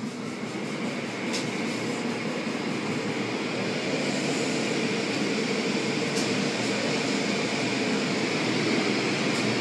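Car wash machinery: a steady rushing noise that grows gradually louder.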